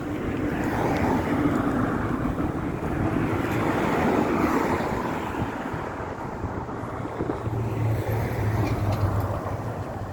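Road traffic: cars passing one after another, the noise swelling and fading, the second pass near the end with a low engine hum. Wind is buffeting the microphone.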